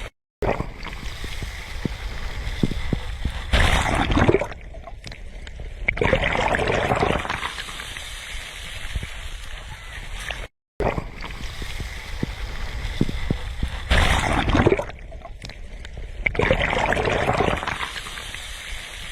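Sea waves breaking and washing up the shore, with two louder surges of surf a couple of seconds apart. The same pair of surges comes again about ten seconds later. The sound cuts out briefly near the start and again midway.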